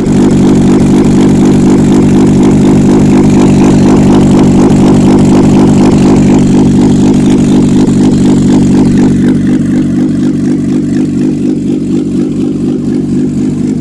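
Nissan CA16S 1.6-litre four-cylinder carburettor engine running on a test stand, a steady even run. About nine seconds in it settles a little quieter.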